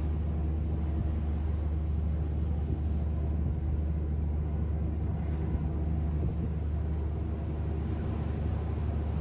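A motor running with a steady low hum and rumble.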